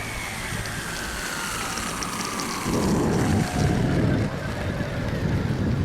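Thin whine of a small electric RC airplane motor, falling slowly in pitch. From about three seconds in, wind buffets the microphone with a loud low rumble.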